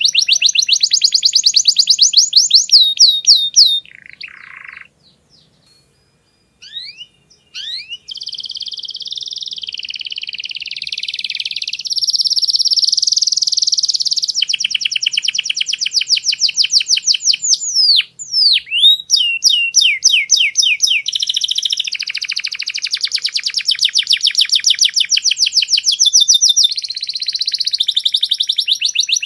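Domestic canary singing: fast rolling trills of rapidly repeated high notes. There is a pause of a few seconds with a few scattered notes about four seconds in, then long unbroken trills.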